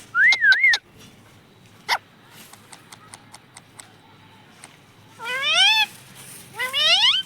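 Pet parrot calling: a short wavering whistle at the start, then two rising, meow-like squawks near the end. A sharp click comes about two seconds in.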